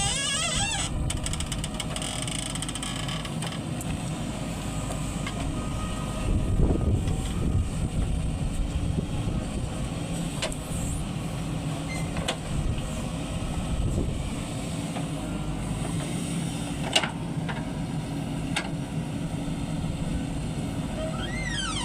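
Diesel engine of a JCB 3DX backhoe loader running steadily while it digs and loads. It swells louder a couple of times, with scattered clicks and one sharp clank about three-quarters of the way through.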